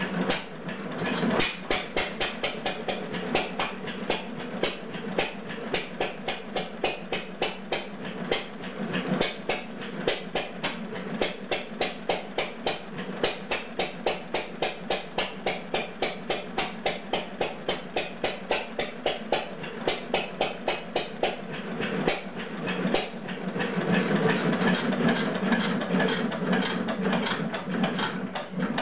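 Bradford stationary gas engine running with a regular beat of about three strokes a second, louder and fuller for the last few seconds; its governor is a little twitchy.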